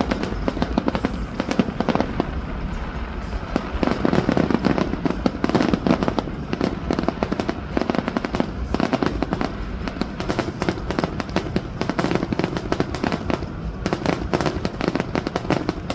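Fireworks going off in rapid, continuous succession: dense popping and crackling bangs with a low rumble beneath.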